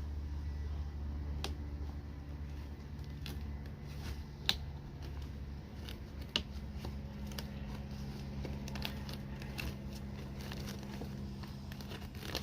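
Unboxing handling: scattered clicks, crackles and short rustles of cardboard and plastic packaging being handled, two sharper clicks among them, over a steady low hum.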